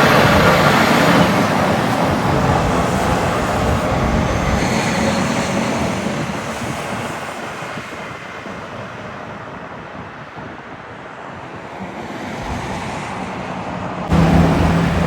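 Road traffic passing close by: a vehicle goes past loudly and fades away, then another approaches. Near the end the sound cuts suddenly to a louder, steady engine drone.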